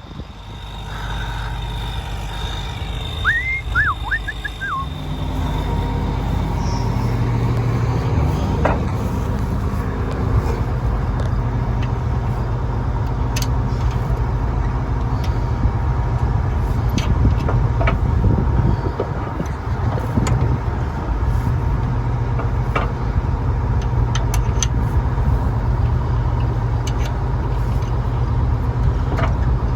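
Heavy diesel farm machinery engine running steadily, growing louder over the first few seconds and then holding. A few short high chirps sound about three seconds in.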